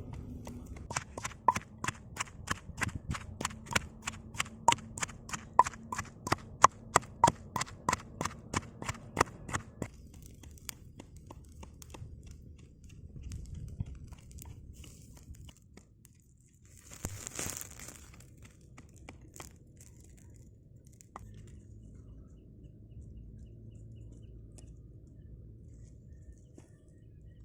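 Knife chopping on a wooden board in a quick, even rhythm of several strokes a second, stopping about ten seconds in; a brief rustle follows later.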